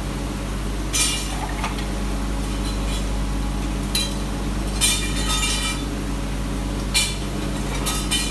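Metal parts clinking together about five times, the loudest just before the five-second mark, over a steady machine hum.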